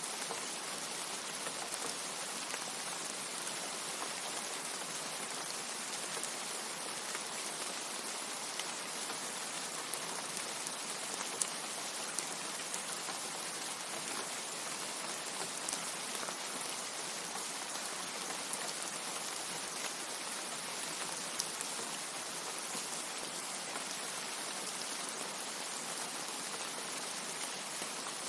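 Steady rain: a dense, even hiss of rainfall with scattered sharper ticks of single drops.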